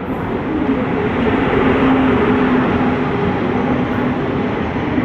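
An express train hauled by an electric locomotive running through a station without stopping: a loud, steady rush of wheel and rail noise.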